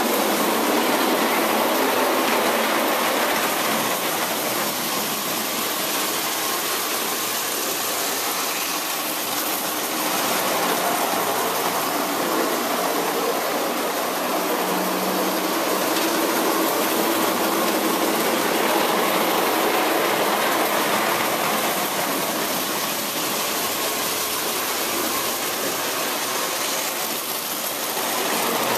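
Hornby 20-volt electric toy locomotive running steadily around its track pulling passenger cars, a continuous mechanical whirring rattle from the motor and wheels.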